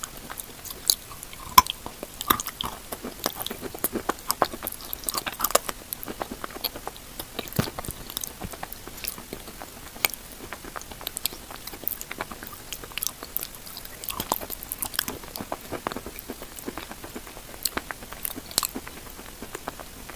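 Close-up chewing of chalk mixed with a paste: irregular crunching and crackling bites, many small sharp cracks, with creamy, wetter chewing in between.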